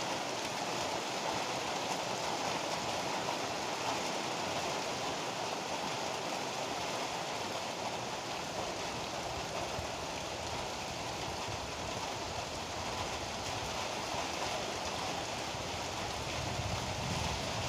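Heavy rain pouring steadily as an even hiss. A low rumble starts to build right at the end.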